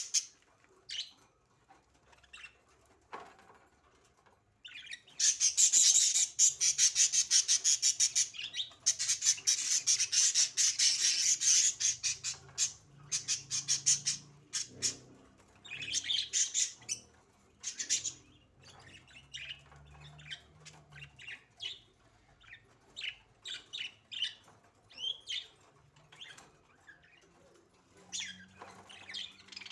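Pet budgerigars chirping, with a long stretch of rapid wing flapping starting about five seconds in and lasting several seconds, then scattered short chirps.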